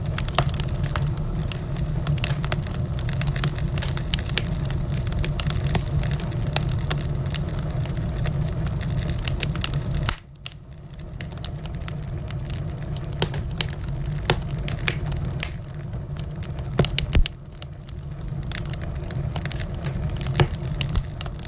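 Wood fire in a fireplace crackling, with frequent sharp pops over a low rumble. About halfway through the rumble drops away abruptly and the fire goes quieter, the crackles and an occasional loud pop going on.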